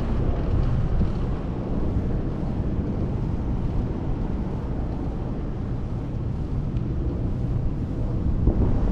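Steady low wind rumble on the microphone of a camera carried on a moving bicycle, with road noise underneath.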